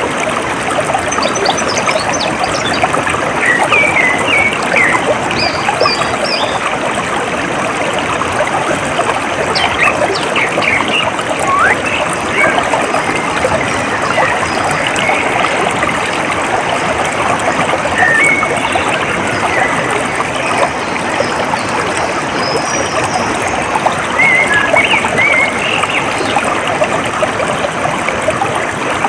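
Water trickling and flowing steadily in a stream, with small birds chirping now and then over it.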